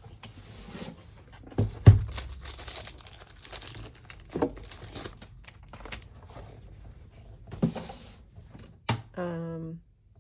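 Paper and craft supplies being rummaged and handled on a table, with rustling and crinkling and several knocks as items are picked up and set down, the loudest about two seconds in. A short hummed voice sound comes near the end.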